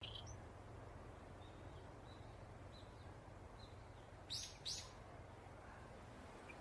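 Faint bird chirps, then two short, loud bird calls in quick succession about four seconds in, over a steady low background hum.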